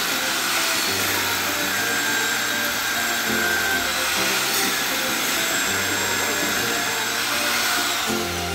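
A loud steady rushing noise over background music with a stepped bass line; the noise starts abruptly and cuts off near the end.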